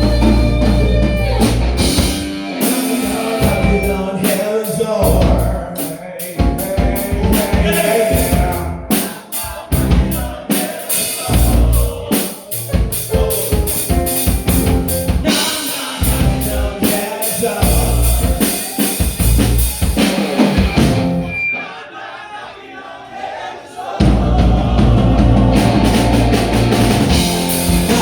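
Rock band playing an instrumental passage with the drum kit to the fore and many sharp drum hits. Near the end the band drops away for a couple of seconds, then crashes back in full.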